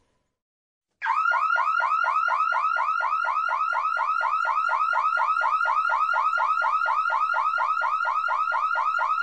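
Electronic alarm-like sound from a battery toy's sound chip: a rising whooping chirp that repeats about five times a second and starts about a second in.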